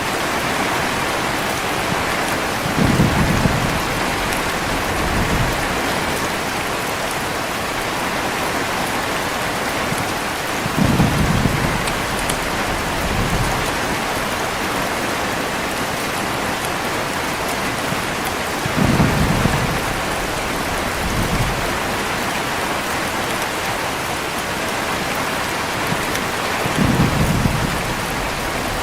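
Steady heavy rain with thunder: four low rumbles about eight seconds apart, each trailed by a smaller rumble a couple of seconds later.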